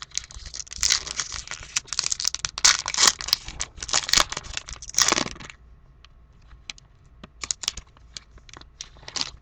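Crinkly wrapper of a pack of trading cards being torn and crumpled for about five and a half seconds, then scattered light clicks and rustles of cards being handled.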